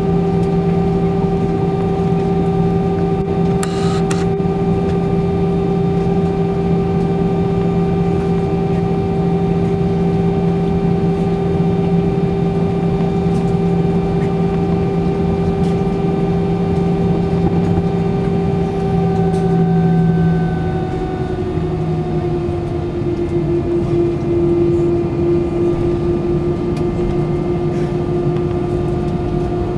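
Steady drone inside an Airbus A320-200's cabin, a hum with several held tones that all dip a little in pitch about twenty seconds in. A brief click sounds about four seconds in.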